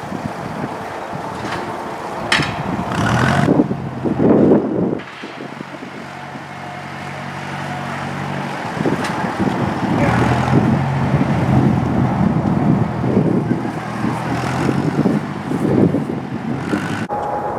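Tractor engine running as it pushes over trees, a steady engine note that swells and eases over several seconds, with rushing noisy swells in the first few seconds.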